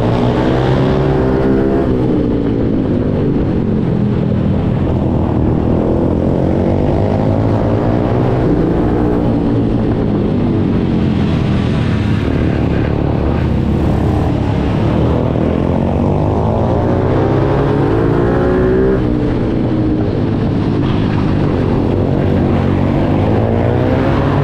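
Kayo mini GP pitbike engine revving hard and easing off again and again as it is ridden around the track, its pitch rising and falling repeatedly.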